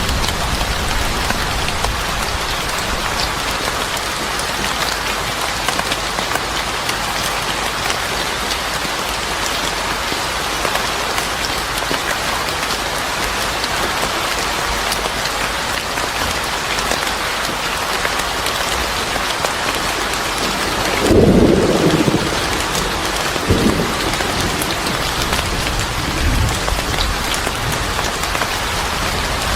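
Steady heavy rain, an even hiss of falling drops. About two-thirds of the way through comes a brief low rumble, with fainter low swells a few seconds after.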